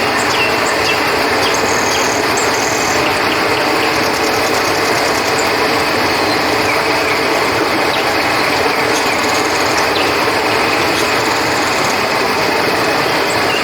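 Steady rush of flowing river water under a constant chorus of crickets, with scattered short, high insect chirps.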